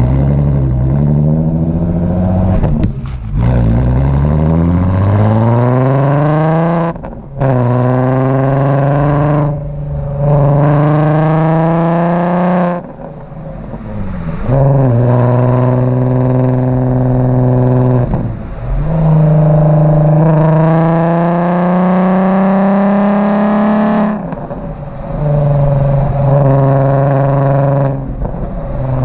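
Mk4 Golf R32's 3.2-litre VR6 through a Milltek exhaust, driven hard: the engine note climbs in pitch under acceleration, falls at each gear change, and holds steadier between pulls. About halfway through the revs cut off sharply as the throttle is lifted.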